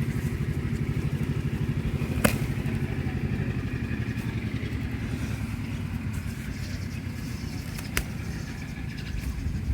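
An engine running steadily with a rapid low pulse, fading near the end, with two sharp clicks, one after about two seconds and one near the end.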